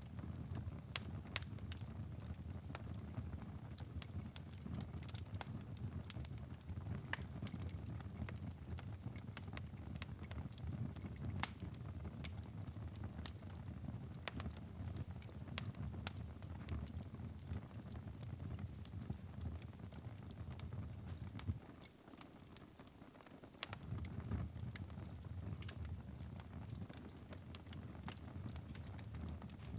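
Wood fire burning in a fireplace: a steady low rumble of flames with frequent sharp, irregular crackles and pops. The rumble dips for about two seconds around two-thirds of the way through while the crackles go on.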